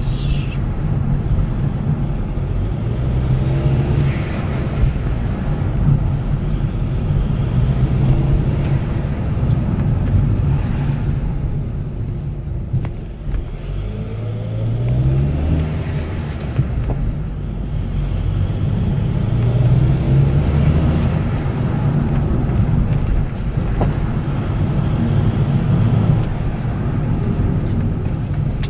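A stock VW 2.0 TDI BKD diesel engine pulling a car along the road, its engine note rising and falling as it accelerates and lifts off. A fluttering 'flufluflu' turbo sound comes with it, which the owner calls the wastegate sound.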